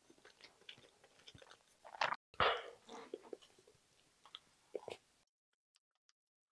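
Close-miked chewing of budae-jjigae, with small wet mouth clicks. Then a wooden spoon scrapes and scoops cooked rice out of a ceramic bowl, louder about two and a half seconds in. The sound cuts off suddenly near the end.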